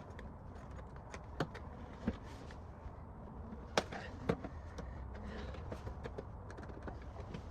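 Scattered sharp clicks and taps of small metal parts being handled and fitted by hand during a motorcycle repair, two louder ones a little after halfway, over a low steady hum.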